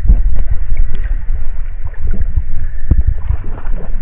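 Sea water sloshing and lapping close to the microphone as a swimmer moves in it: a loud, uneven low rumble with scattered small knocks.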